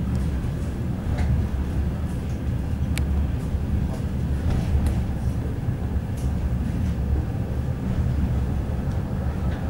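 A suburban passenger train's carriage rumbling steadily as it rolls along the track, heard from inside, with a few sharp clicks and knocks from the running gear.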